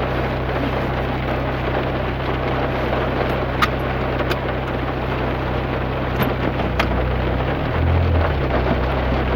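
Heavy rain heard from inside a car's cabin: a steady hiss of rain on the body, with the running engine's low hum underneath and a few sharp ticks.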